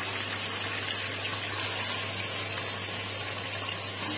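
Raw chicken pieces sizzling in hot oil in an aluminium pressure cooker: a steady hiss, with a faint steady low hum underneath.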